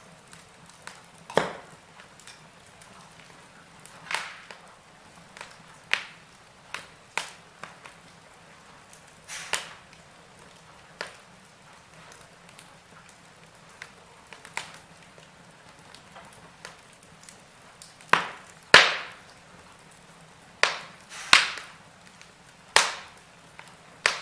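Wood fire in a fireplace crackling: irregular sharp pops and snaps over a low steady hiss, with a run of louder pops near the end.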